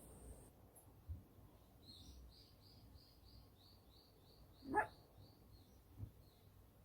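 A puppy gives one short, rising yelp, the loudest sound, over a bird chirping in an even run of about three chirps a second. Two soft thumps come before and after the yelp.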